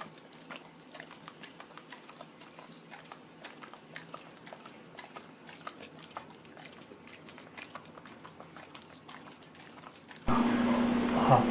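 A dog licking and smacking at sticky peanut butter, a run of many quick, irregular wet clicks of tongue and lips. About ten seconds in it cuts off abruptly to a louder stretch with a steady low hum.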